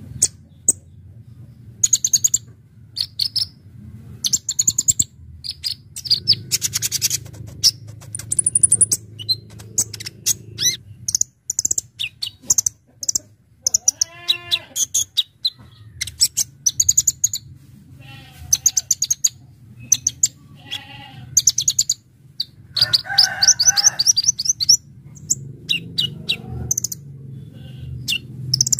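Kolibri ninja sunbird singing: rapid, sharp, high chips and fast trills in short bursts, over a steady low hum.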